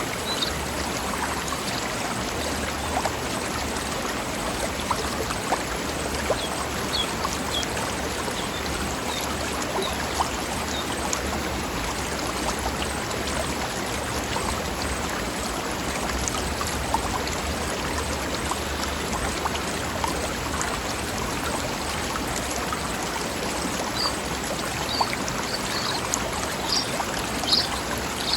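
Mountain river running over rocks, a steady splashing babble of water with no let-up.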